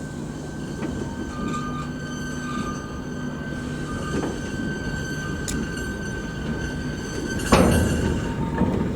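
Steam-hauled train running on the rails with a steady high-pitched wheel squeal over a rumbling background. A sudden louder rush of noise comes about seven and a half seconds in.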